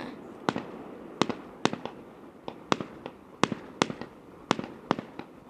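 Fireworks going off at a distance: a string of sharp pops and bangs at irregular intervals, about a dozen in a few seconds.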